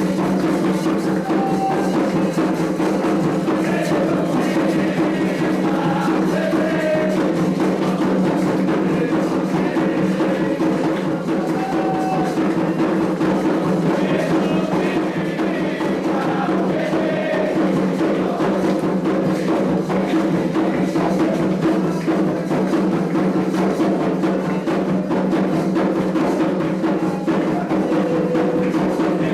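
Candomblé ritual music: hand drums and percussion playing a dense, steady rhythm, with voices faintly singing chants over it.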